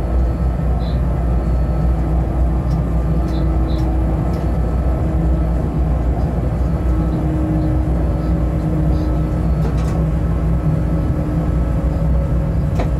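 Cab of an electric freight locomotive running at speed: a steady low rumble of wheels and running gear on the track, with a faint steady hum.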